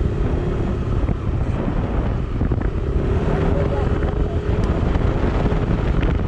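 A vehicle on the move, with heavy wind rumble on the microphone over a faint steady engine tone.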